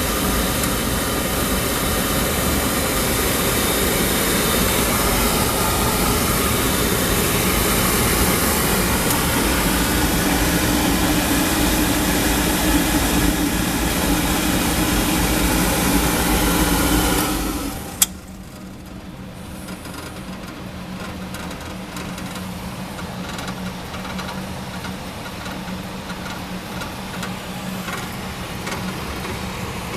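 Oil furnace burner running with a steady roar. About two-thirds of the way through it cuts out, a single sharp click follows, and a quieter steady hum carries on.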